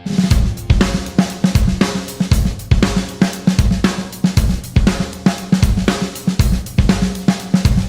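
Punk-rock instrumental break, led by a full drum kit playing fast and hard with bass drum, snare, hi-hat and cymbals over a steady bass note, without vocals. It comes in suddenly at the start.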